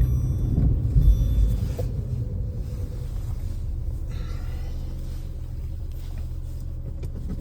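Lada Vesta NG's engine pulling in second gear, a low rumble heard from inside the cabin, louder for the first couple of seconds and then steadier. Only the engine is heard, with no hum from the six-speed manual gearbox.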